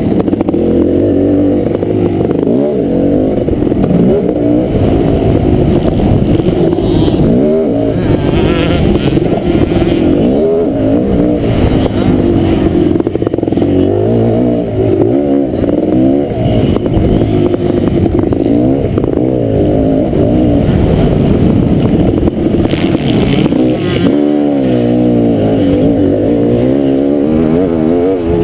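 Kawasaki KX500's two-stroke single-cylinder engine running hard, revving up and dropping back over and over as the motocross bike is ridden around the track.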